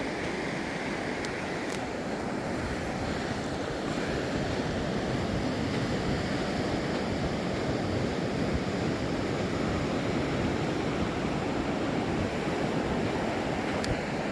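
Ocean surf washing onto the beach, a steady rush of noise that swells slightly a few seconds in.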